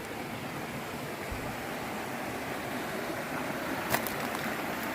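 River water rushing steadily over rocks, a continuous even roar of a stream and cascade. A single sharp click sounds about four seconds in.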